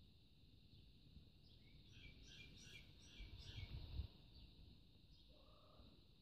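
Faint outdoor background: a few short bird chirps from about a second and a half to nearly four seconds in, over a steady high hiss, with a brief low rumble on the microphone about four seconds in.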